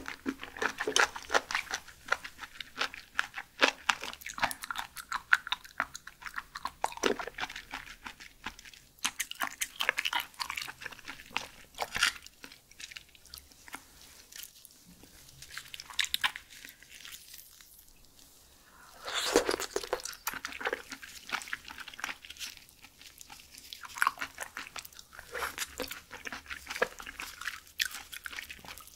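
Close-miked chewing and biting of raw shellfish: a steady run of short wet crunches and clicks. The chewing thins out for a few seconds a little past the middle, then there is one louder burst, after which it picks up again.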